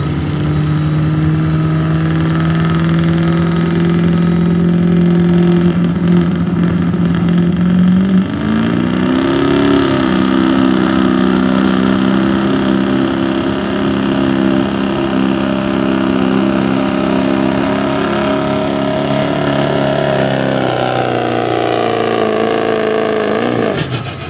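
Turbo diesel 4x4 pickup pulling a sled under full load, engine running hard. About a third of the way in the engine speed climbs and a high turbocharger whine rises, then holds. Near the end the whine and engine fall away suddenly as the throttle comes off.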